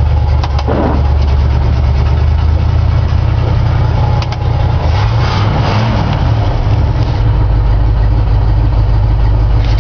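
Old Ford pickup's engine running steadily just after a cold start, having sat unused for a couple of months. The engine note shifts briefly about halfway through.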